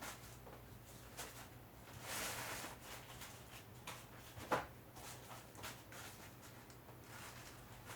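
Faint scattered rustles and small clicks over a low steady hum, with a brief rustle about two seconds in and one sharper click about four and a half seconds in.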